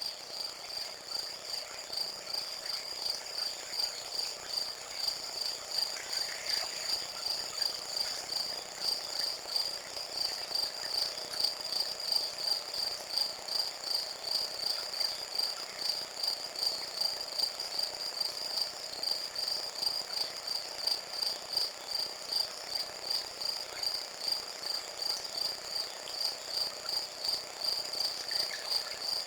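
Crickets chirping steadily in a high, even pulsing trill that repeats a few times a second.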